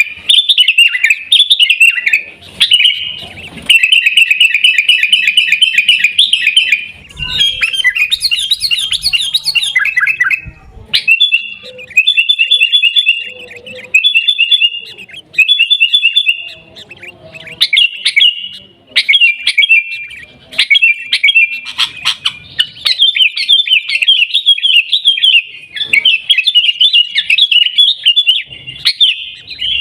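Sooty-headed bulbul (kutilang) singing and chattering in fast runs of high notes, broken by short pauses, nearly without let-up.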